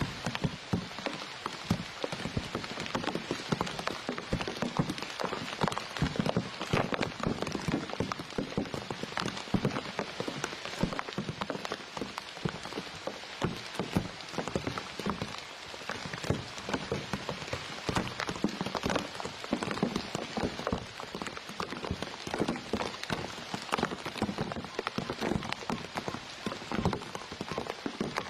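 Steady rain, a dense irregular patter of drops.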